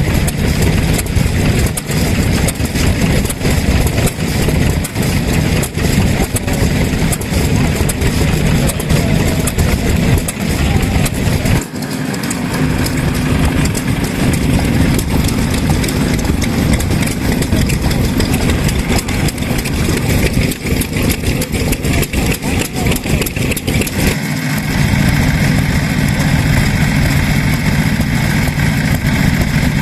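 Vintage stationary petroleum engines running steadily with a fast, even knocking beat. The sound changes abruptly twice, about 12 and 24 seconds in.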